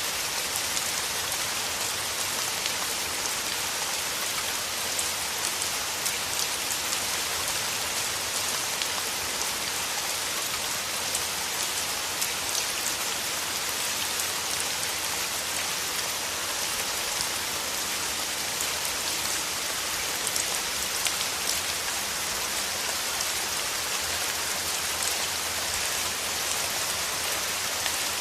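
Steady rain falling through forest trees, a dense even hiss with many fine drop patters on leaves.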